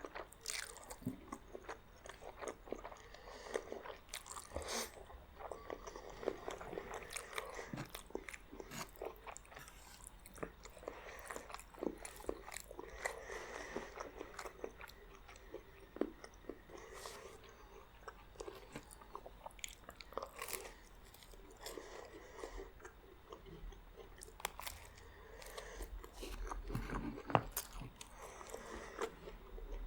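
Close-miked eating: a person biting and chewing spaghetti and garlic bread, heard as many irregular sharp mouth clicks and short crunches.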